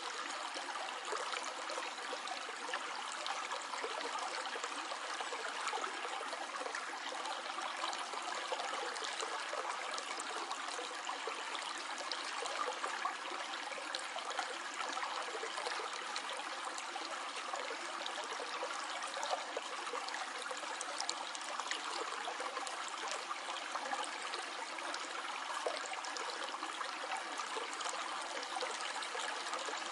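Small stream of water flowing and trickling steadily, a continuous splashing rush full of small droplet sounds.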